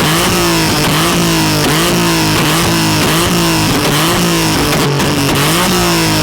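Car engine held at high revs, its pitch dipping and coming back up in a steady rhythm about every two-thirds of a second, as when it is held against a rev limiter.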